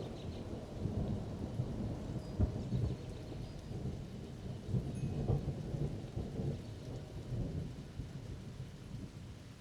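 Thunder rumbling low and rolling, slowly fading away, over steady rain.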